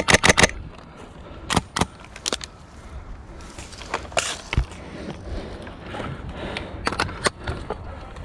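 Airsoft gunfire: a quick string of sharp shots right at the start, then scattered single cracks and clicks, over wind rumbling on the microphone.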